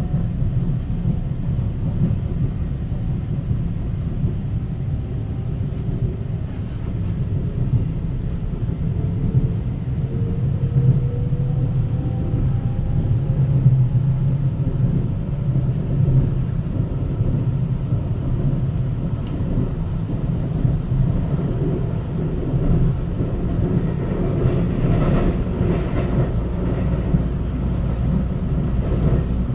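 Taiwan Railway EMU900 electric multiple unit running on the line, a steady rumble of wheels on rail under a faint motor whine that rises in pitch through the first half as the train gathers speed.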